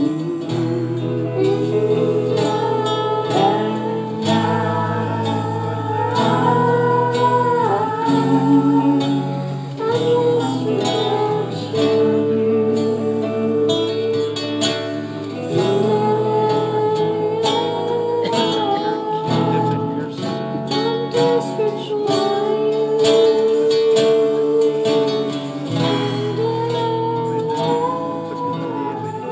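Slow worship-style song: acoustic guitar accompaniment under a singing voice that holds long notes, gliding up and down between them.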